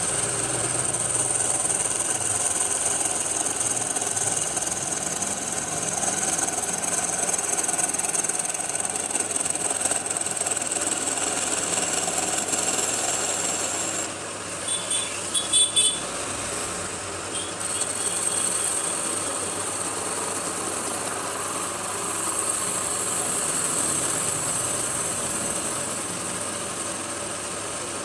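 Wood lathe running steadily, with a handful of short sharp knocks about halfway through.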